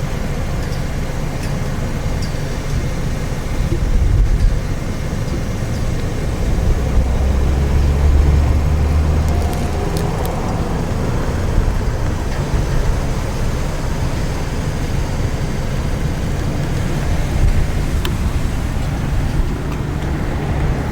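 Steady low rumble of road traffic, swelling for a few seconds partway through as a vehicle passes, with a couple of faint clicks.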